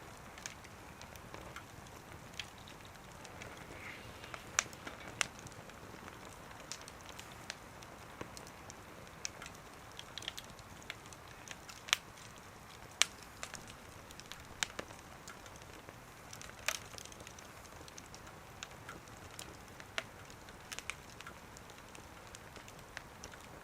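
Wood fire crackling, with scattered sharp pops and snaps at irregular intervals over a faint steady hiss.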